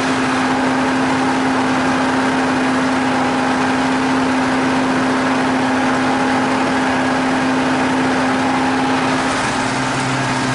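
T-150K tractor's diesel engine running steadily while the tractor is under way. About nine seconds in, its note drops to a lower hum.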